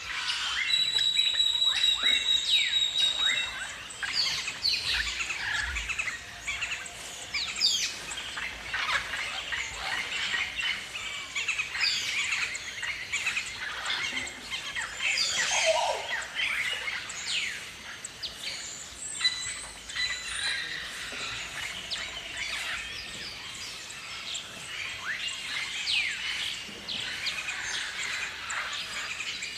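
A flock of galahs calling: many overlapping short, high screeches, most of them falling in pitch, loudest in the first few seconds.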